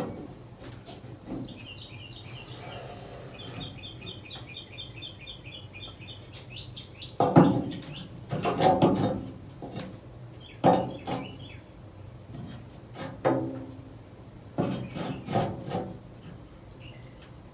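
A small bird's rapid chirping trill, many short notes in a row for several seconds. From about seven seconds in it gives way to a string of separate knocks and clatters of tools and metal being handled.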